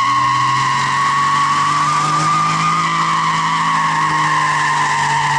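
Car doing a burnout: the engine is held at steady high revs while the spinning tyres squeal in one long, unbroken screech that sags slightly in pitch.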